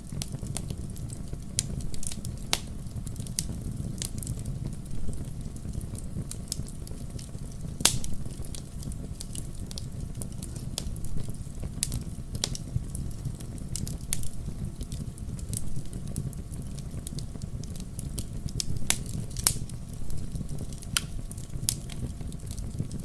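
Wood campfire crackling: irregular sharp pops and snaps over a steady low rumble, with a louder pop about eight seconds in.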